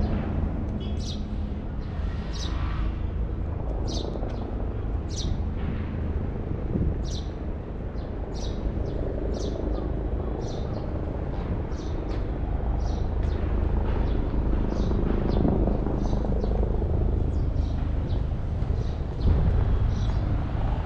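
Birds chirping, short high chirps about once or twice a second, over a steady low rumble of city traffic.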